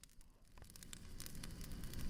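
Wood fire crackling, with scattered sharp pops over a low rumble, getting busier from about half a second in.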